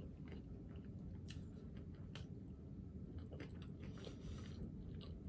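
A person chewing a mouthful of fried chicken sandwich, close to the microphone: faint, scattered wet mouth clicks over a low hum.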